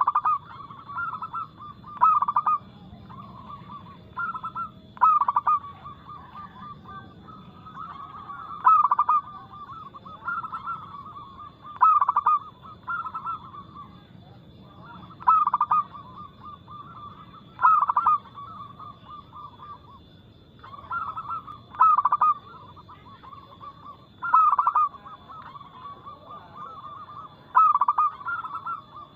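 Zebra doves (perkutut) cooing: a continuous rapid, rippling coo with a louder, stressed note about every two to three seconds.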